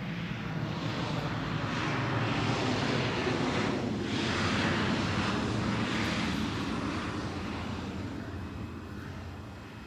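Airliner jet engines passing the airport: a broad rushing roar that builds to a peak about halfway through and then slowly fades.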